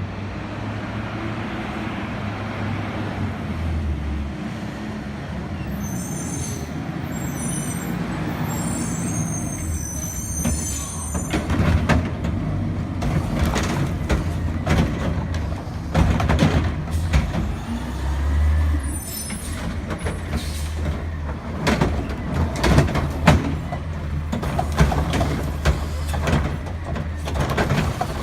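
Garbage truck engine running steadily, with brief high-pitched squeals about six to ten seconds in, then a run of irregular knocks and bangs from about twelve seconds on as yard waste is collected.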